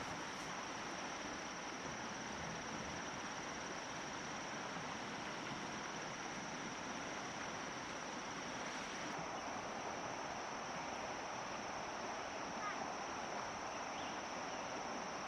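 A steady outdoor ambience: a constant high insect drone over an even rushing hiss, with no distinct events.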